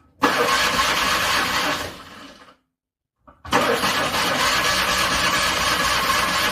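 Cold car engine cranked by its starter motor in two long bursts with a dead pause between them; each burst begins with a short click and the second runs on near the end.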